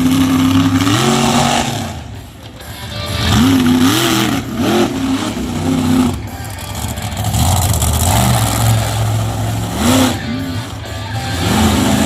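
Monster truck engine revving hard and dropping back during a run, with quick throttle blips about four seconds in and again near ten seconds, and a short lull off the throttle about two seconds in.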